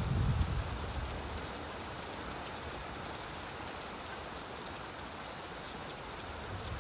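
Steady rain, an even hiss with faint scattered drop ticks. A low rumble of thunder dies away in the first half second.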